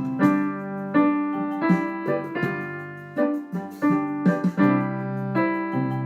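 Piano playing a simple melody, one note after another about twice a second over sustained lower notes.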